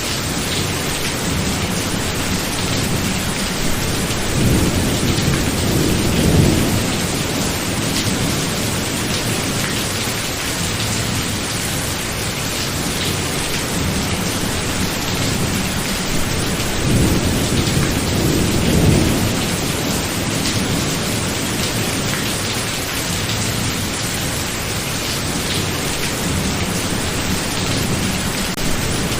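Steady heavy rain in a thunderstorm, with thunder rumbling low twice, about four seconds in and again about sixteen seconds in.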